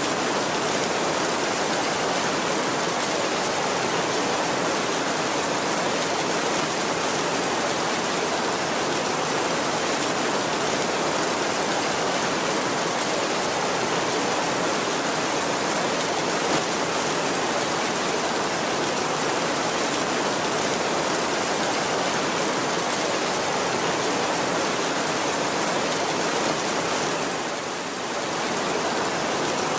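Heavy rain falling steadily on a tin roof, an even dense hiss with no thunder; it dips briefly in level near the end.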